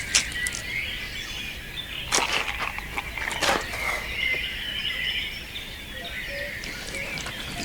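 Birds chirping in the open air, with two sharp knocks about two and three and a half seconds in.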